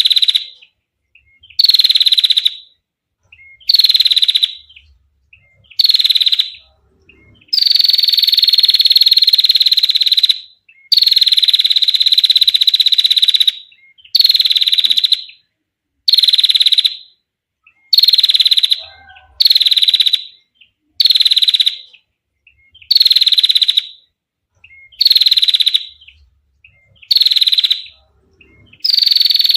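Female prinia (prenjak) giving its long, clear trilling call over and over, each trill a high buzzy note that dips slightly at the start. Most trills last under a second, with short silences between; two in the middle run about three seconds each.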